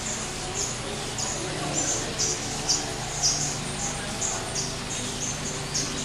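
Small birds chirping, short high chirps several times a second in an irregular run, loudest between about two and three and a half seconds in, over a steady low hum.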